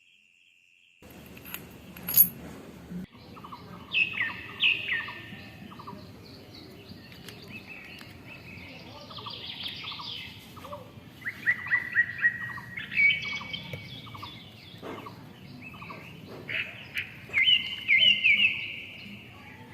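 Birds chirping and calling, many short repeated notes over faint outdoor background noise, starting about a second in.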